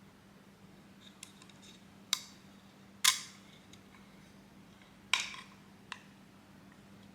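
Sharp hard-plastic clicks and knocks, four of them a second or two apart, from 3D-printed toy rifle parts being handled and fitted together, over a faint steady low hum.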